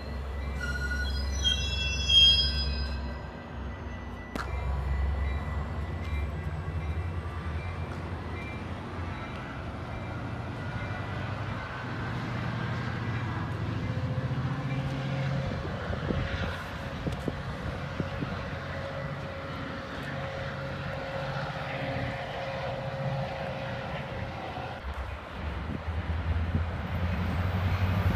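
Metra bi-level commuter train rolling away along the track, a steady low rumble of wheels on rail, with a brief high squeal about two seconds in. Near the end the rumble swells as another train approaches.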